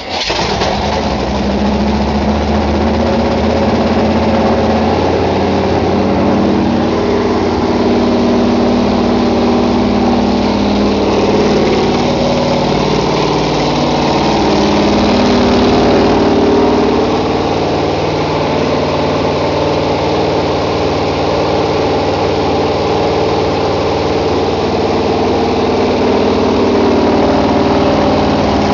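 Freshly built 385 cubic-inch small-block Chevy V8 stroker, having just caught on its first start, running steadily. This is the first run of a new flat-tappet cam and lifters, which are broken in by holding the engine at raised revs.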